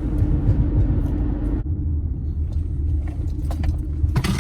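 Car engine and road rumble heard from inside the cabin, steady and low, with a brief clatter near the end.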